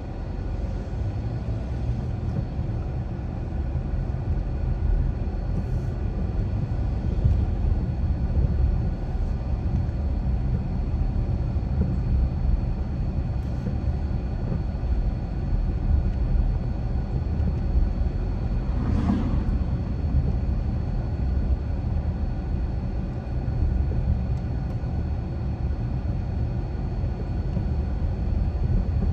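A car driving, with a steady low rumble of road and engine noise. A brief higher-pitched sound cuts through once, about two-thirds of the way in.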